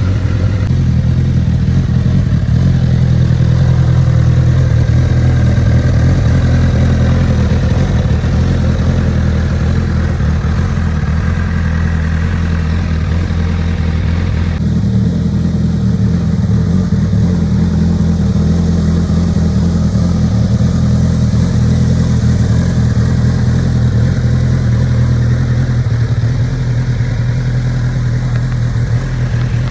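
2013 Honda CBR1000RR Fireblade's inline-four engine idling steadily through its aftermarket Scorpion exhaust.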